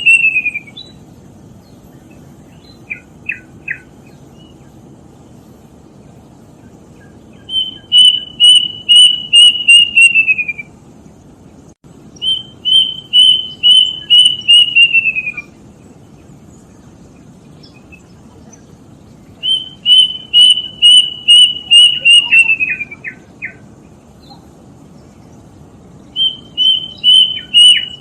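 Kedasih cuckoo singing a rapid series of about ten repeated whistled notes that fall in pitch at the end. The series comes four times, about every six seconds, with a few short lower notes between, over a steady low hiss.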